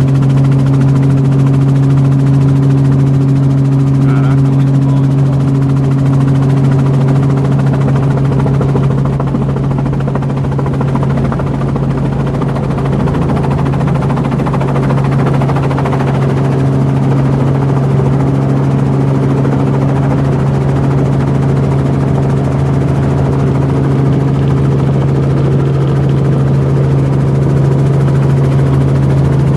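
Helicopter in flight: a steady, loud drone of engine and rotor with a strong low hum.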